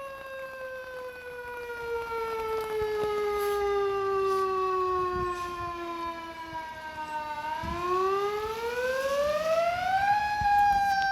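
Fire engine siren winding slowly down in pitch for most of the time, then about three-quarters of the way through winding back up to a high steady pitch near the end.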